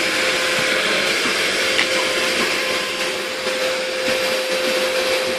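Vacuum cleaner running steadily: an even rushing noise with a constant mid-pitched whine.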